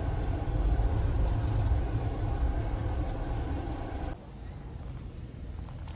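Low, steady rumble of a car moving, heard from inside, which drops away abruptly about four seconds in.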